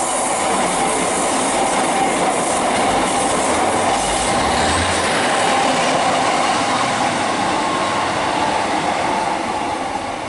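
A three-unit diesel multiple unit, a Class 150 coupled with two Class 153s, passes through the station at low speed with a steady rumble of engines and wheels on the rails, which eases off near the end as it moves away.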